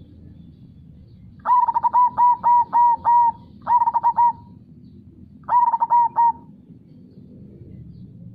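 Zebra dove (perkutut) singing its rapid cooing song in three phrases, a long run of about six notes followed by two shorter ones, over a steady low rush of river water.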